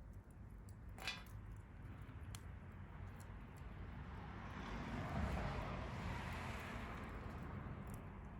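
Wood fire crackling in a stainless fire grill, with scattered small pops and one sharper snap about a second in. Midway a rushing noise swells up and fades away again.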